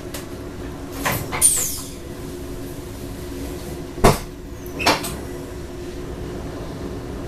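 Passenger train running, heard from the driver's cab: a steady hum under four sharp clunks as the wheels run over rail joints and points, the loudest about four seconds in. A short falling squeak comes with the second clunk.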